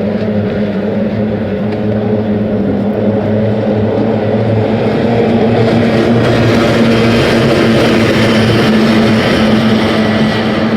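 Racing boats' outboard engines running at speed with a steady drone, growing louder from about halfway through as the boats come closer.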